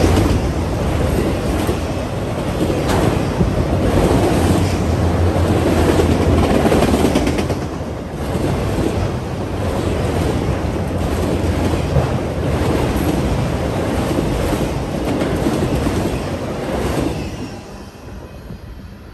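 Freight train of autorack cars rolling past: a steady rumble of steel wheels on the rails with scattered clacks over the rail joints, fading away near the end as the last car passes.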